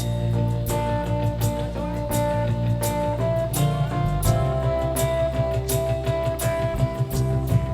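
A live worship band playing an instrumental passage: long held notes that shift about three seconds in, over a steady tapping beat.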